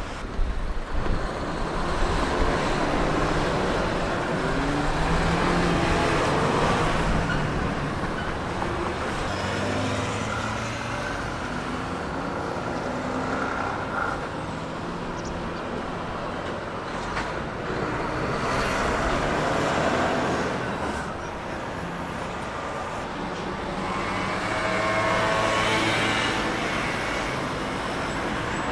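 Large semi-trailer trucks' diesel engines pulling through turns amid road traffic, engine notes rising and falling as they accelerate, with a rising engine note near the end.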